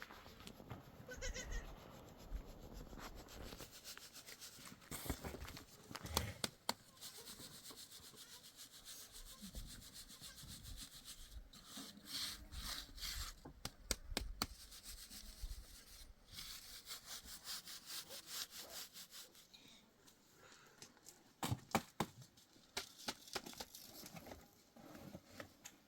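A goat bleats briefly about a second in, then rough scraping and rubbing goes on, broken by many sharp knocks and clicks.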